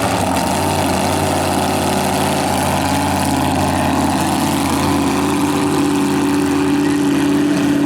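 Mini rod pulling tractor engine running at a steady speed, with a higher tone in its note growing stronger from about halfway through.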